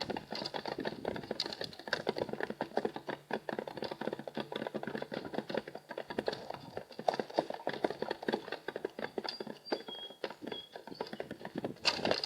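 Dense, irregular tapping and clicking of birds' beaks pecking seed on the feeder tray, picked up close because the camera rests in the tray. A few short, faint high whistles come about nine to ten seconds in.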